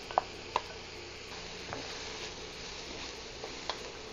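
String beans and vegetables sizzling steadily in an oiled wok as they are sautéed. Two sharp clinks come in the first second, as the beans are tipped in, and a lighter knock comes near the end.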